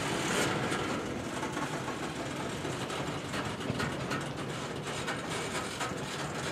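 Coal train's cars rolling steadily past: steel wheels running on the rails, with a continuous rumble and faint clicking from the wheels.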